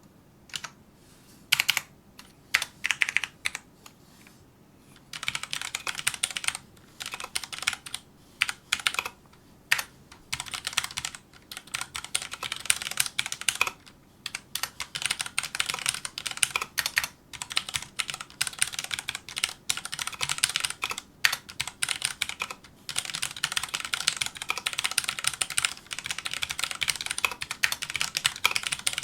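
Filco Majestouch2 mechanical keyboard with tactile, non-clicky Cherry MX Brown switches being typed on: a few separate keystrokes at first, then after a short pause fast continuous typing in runs broken by brief gaps.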